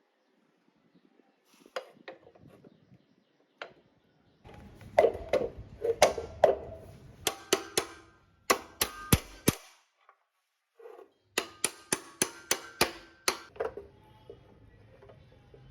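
Metal knocking against metal: sharp taps and clanks with a brief ringing after each, coming in three quick runs with short pauses between.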